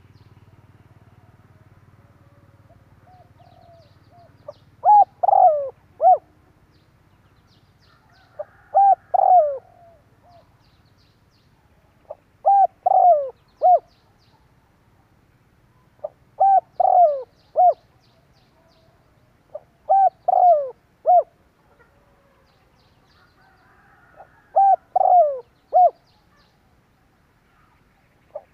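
Spotted dove cooing: a phrase of a short lead-in note and three coos, repeated about every four seconds, six times.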